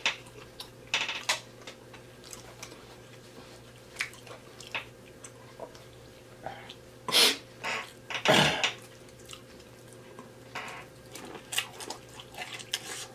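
Close-miked eating: wet chewing and lip smacking on sauce-covered shrimp and mussels, a string of short sharp clicks. Two louder noises stand out about seven and eight and a half seconds in.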